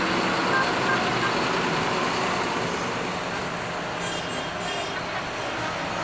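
Tractor engines running steadily, with a couple of short hisses about four seconds in.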